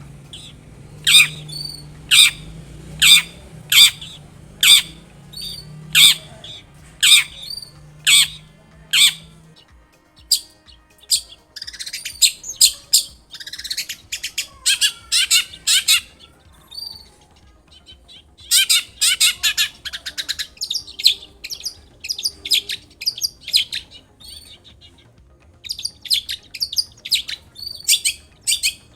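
Long-tailed shrike (cendet) singing. For about the first ten seconds it gives a run of sharp, high notes about two a second. After that come bouts of rapid, scratchy chattering, broken by short pauses.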